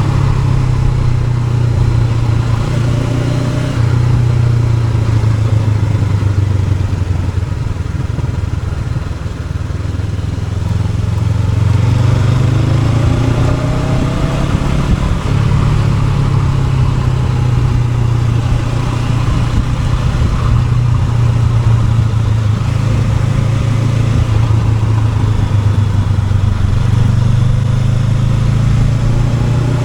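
Honda NX500's parallel-twin engine running steadily under way, easing off briefly about nine seconds in and then rising in pitch as it accelerates again.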